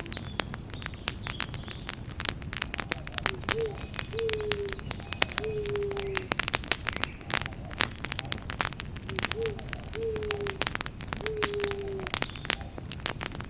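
Campfire crackling with frequent sharp pops over a low rumble of burning. An owl hoots in two series of three: the first hoot is short and the next two are longer and slide slightly down in pitch.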